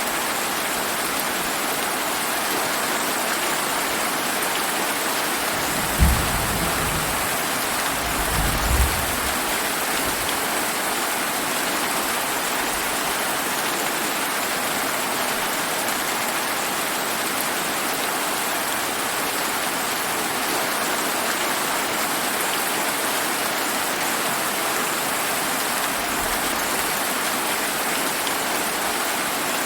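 Steady heavy rain falling, even and unbroken. About six seconds in, a short low rumble of thunder starts suddenly, with a second low rumble shortly after.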